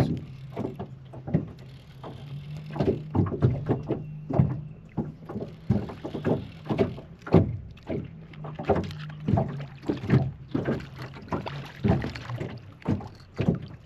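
Choppy water slapping and knocking irregularly against a boat hull, a few hits a second, over a steady low hum from the electric trolling motor holding the boat on spot lock.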